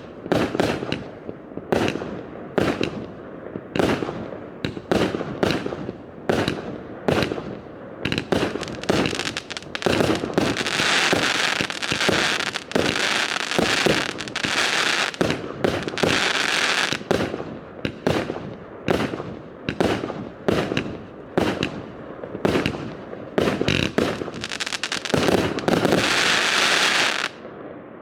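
A multi-shot firework firing a rapid string of shots and bursts, about one or two a second. Twice the shots run together into a dense continuous crackling rush, once through the middle and again near the end. The firing stops abruptly shortly before the end.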